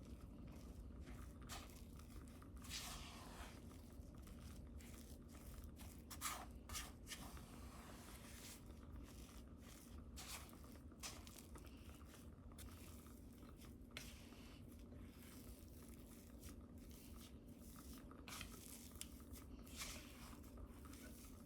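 Quiet kitchen handling sounds: scattered light clicks, scrapes and rustles over a faint steady hum.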